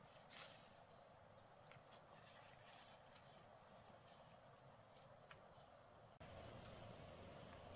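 Near silence: faint rural background with a thin, steady high-pitched hum and a few soft clicks. About six seconds in, the background abruptly gets a little louder.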